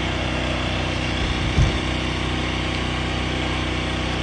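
A steady engine idling drone, with a brief low thud about a second and a half in.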